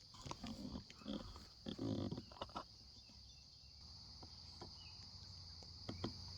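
Crickets chirring in a steady high drone, with a run of irregular close rustles and knocks in the first three seconds and a couple of clicks near the end.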